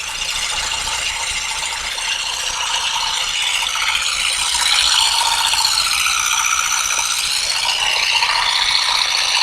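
Mechanical clattering from olive harvesting, most likely a powered olive harvester's vibrating combs working through the branches. It runs continuously with a slightly wavering pitch and grows a little louder about halfway through.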